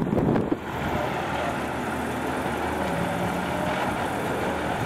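Sports car engines idling steadily. A louder engine sound from a car running by cuts off abruptly about half a second in.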